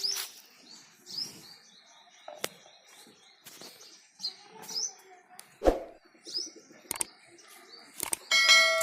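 Small birds chirping in short, repeated high calls, with a few sharp knocks. Near the end comes a loud ringing clang that rings on.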